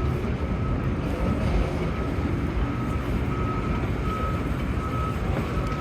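Steady low rumble of vehicle traffic with a short beep repeating about twice a second, like a vehicle's reversing alarm.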